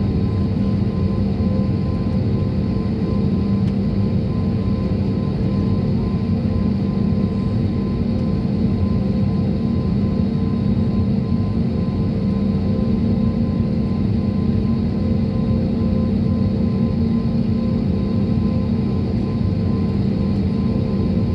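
Steady drone of a jet airliner heard from inside the passenger cabin: engine and airflow noise at a constant level, with a few steady hum tones running through it.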